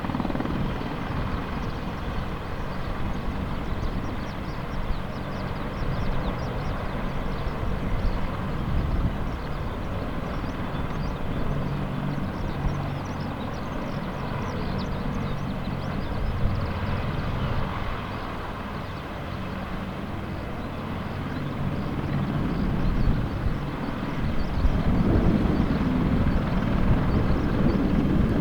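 AH-64D Apache attack helicopter running, its engines and rotor giving a steady drone that grows louder near the end.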